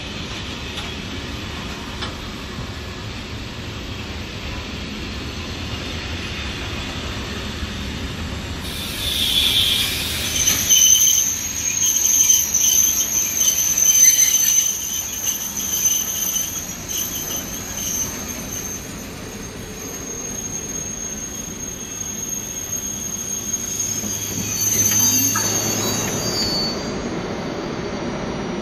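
Freight train of open box wagons rolling past on steel rails: a steady rumble of wheels on track. About nine seconds in, a high-pitched wheel squeal with several piercing tones joins in, loudest for a few seconds, then fades and stops near the end.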